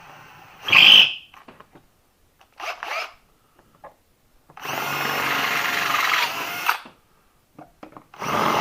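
Cordless drill with a 5/32-inch bit drilling out holes in a GM starter part, run in bursts: a short one about a second in, another near three seconds, a steady run of about two seconds, and it starts again near the end.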